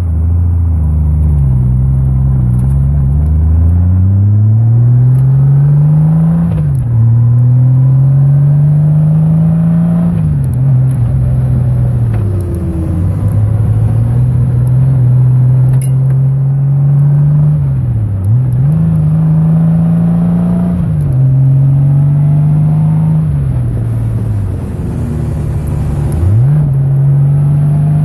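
Touring motorcycle engine running under way. Its pitch climbs steadily and then drops sharply several times as the rider shifts gears and works the throttle through bends, with wind rushing past the microphone.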